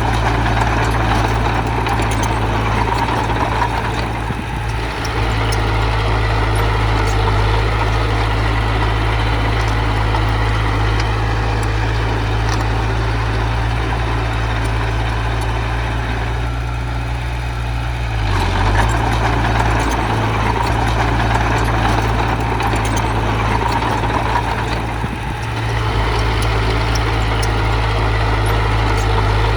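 Diesel engine of heavy earthmoving machinery running steadily under work. It eases off briefly three times and picks up again.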